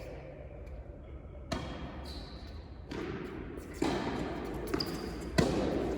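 Tennis ball impacts in an indoor hall: three sharp knocks of ball on racket or court, the last the loudest, each with a short echo, over a low hum.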